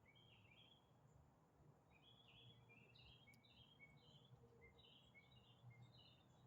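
Faint bird chirping: quick clusters of short, high notes repeating throughout, over a quiet, low outdoor background.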